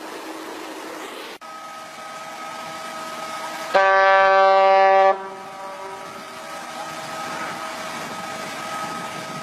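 One loud horn blast, steady in pitch, lasting about a second and a half and starting a little under four seconds in, over a steady rushing background.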